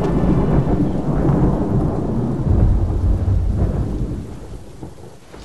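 Thunder rumbling over steady rain. It breaks in suddenly, swells again about halfway through and fades near the end.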